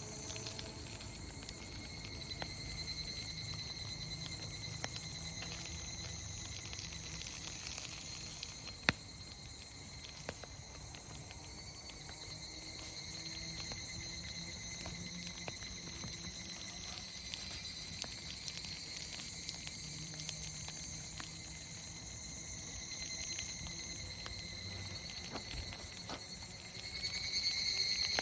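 Steady chorus of insects singing in several high, held pitches, with scattered small clicks and one sharp snap about nine seconds in.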